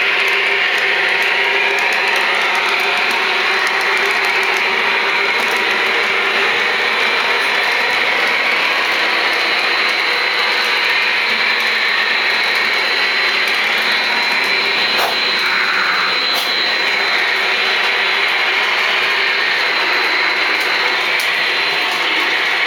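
Lionel O scale electric trains running around Fastrack loops: a steady rumble of wheels on the track and whine of motors and gears, swelling and fading as the trains pass.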